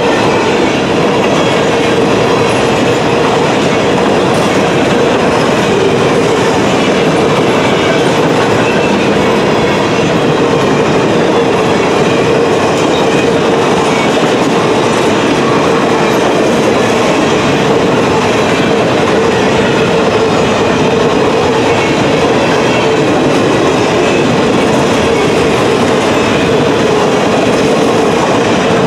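Empty covered grain hopper cars of a freight train passing at speed: a steady rumble with wheels clattering over the rails, and a steady tone running underneath.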